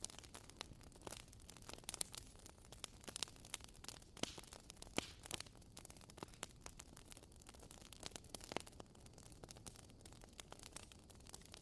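Wood fire crackling: burning firewood giving irregular small pops and snaps over a faint steady hiss, with one sharper pop about five seconds in.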